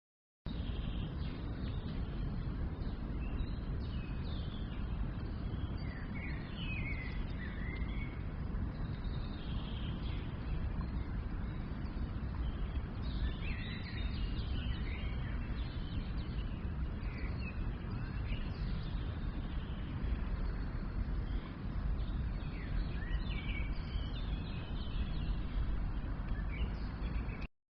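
Birds chirping in short bursts at several moments over a steady, deep outdoor background noise.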